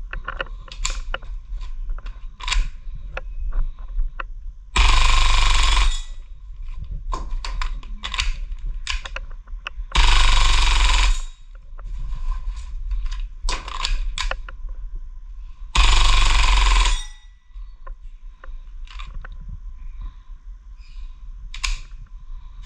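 Clicks and clacks of a WE Galaxy G-series airsoft pistol, a Glock replica, being handled and worked, with three loud hiss-like bursts of about a second each, spaced some five seconds apart.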